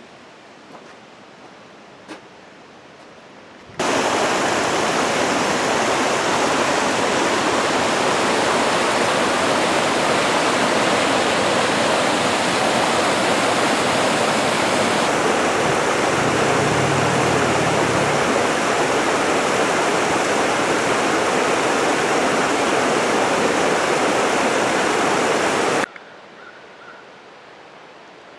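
Rushing mountain stream water: a loud, steady rush that cuts in suddenly about four seconds in and stops just as suddenly a couple of seconds before the end. Before and after it there is only quiet outdoor background.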